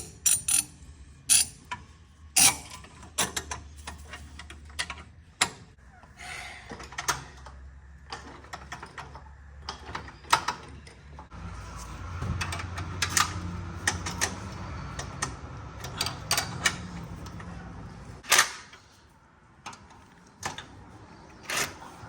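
Irregular metallic clicks, taps and knocks as a metal exhaust hanger is fitted and fastened around the exhaust pipe and rubber hanger. A low steady hum runs underneath and changes about halfway through.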